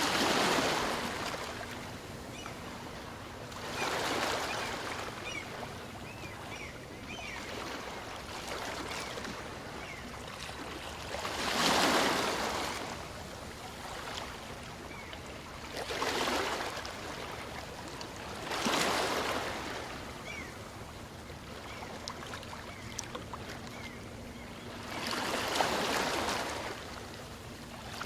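Small waves of a calm sea breaking and washing up a beach, coming and going. Six swells rise and fade, the loudest about twelve seconds in.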